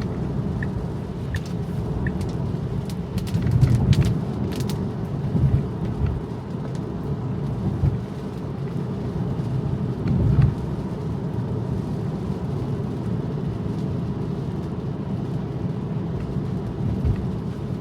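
Road and tyre noise inside a Tesla's cabin on wet streets: a steady low rumble with a few louder thumps about four, five and ten seconds in, and scattered faint ticks in the first few seconds.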